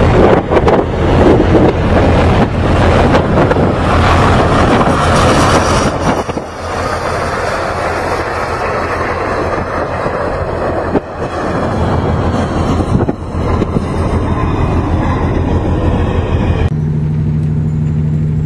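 A vehicle running, a steady low engine drone under loud rushing road and wind noise. About seventeen seconds in it cuts suddenly to a quieter, steady engine hum.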